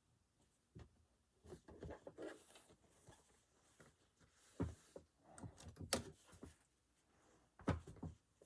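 Faint, scattered clicks and taps, about a dozen, separated by quiet gaps.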